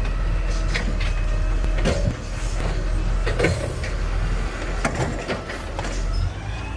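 Garbage truck's diesel engine running under the hydraulic load of its automated side-loading arm, with several sharp clunks as the arm grips, lifts and dumps a trash cart.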